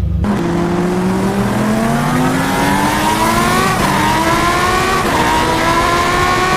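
Car engine accelerating hard, its pitch climbing steadily and dipping briefly twice, about four and five seconds in, as it shifts up a gear.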